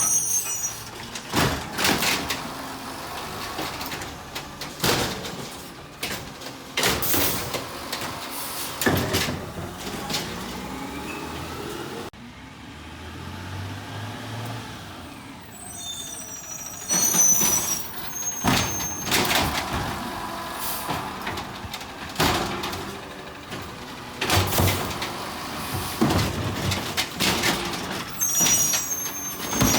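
Garbage truck at work: engine running under repeated clanks and bangs, with short high hissing squeals now and then.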